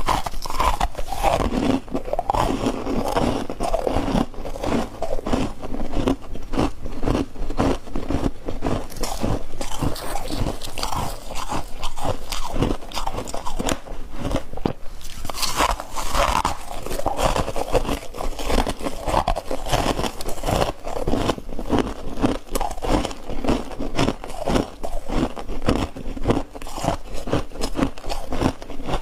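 A person biting and chewing chunks of ice in a steady run of crisp, rapid crunches, heard close up.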